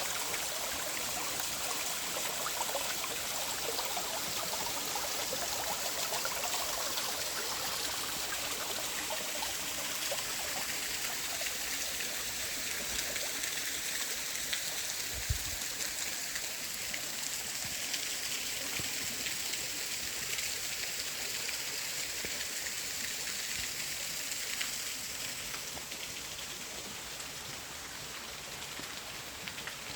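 Creek water running over rocks in small waterfalls and cascades, a steady rushing with trickling and splashing. It becomes a little quieter and thinner near the end.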